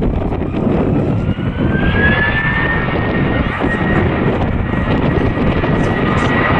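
Airbus A321's two IAE V2533-A5 turbofan engines running loud: a heavy rumble with a fan whine that rises in pitch over the first couple of seconds and then holds steady.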